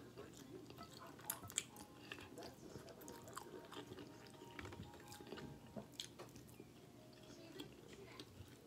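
Quiet chewing of a mouthful of chicken Alfredo pasta, close to the microphone, with a few sharp wet clicks, two about a second and a half in and one around six seconds.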